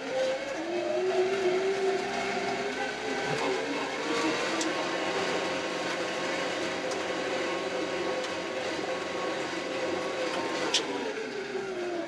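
Kioti RX7320 tractor's diesel engine running under load, its pitch rising in the first second, holding steady, then dropping back near the end. A single sharp click sounds near the end.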